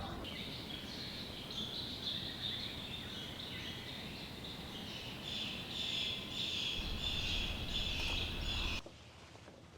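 Chorus of summer insects in woodland, a steady high buzz that pulses unevenly and grows louder in the second half. It cuts off suddenly about nine seconds in.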